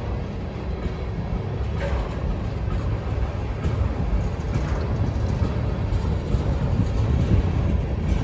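Freight train of tank cars rolling past: a steady low rumble of wheels on the rails, with a few faint clicks.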